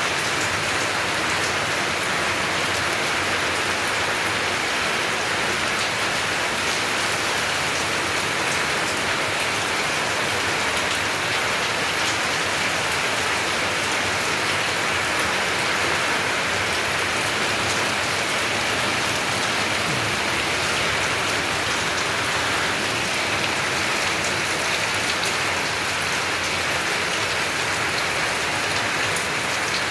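Heavy rain pouring steadily and falling on surfaces, a dense even hiss with fine drop patter.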